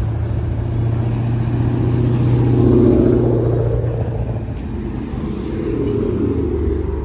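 Car engine running steadily, swelling louder about two to three seconds in and then easing off.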